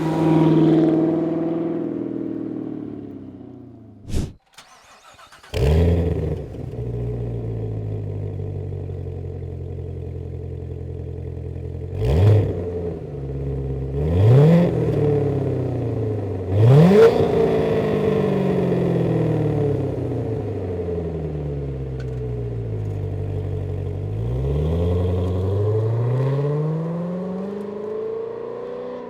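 Chevrolet C7 Corvette's 6.2L V8 through an MBRP axle-back exhaust: an engine note dies away to silence, then the engine starts with a loud flare about five seconds in and settles to idle. It is blipped three times in quick succession, each rev rising sharply and falling back, then given one longer, slower rev near the end.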